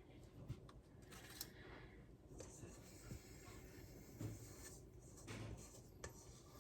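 Faint, intermittent scraping and soft taps of the last thick brownie batter being scraped out of a mixing bowl.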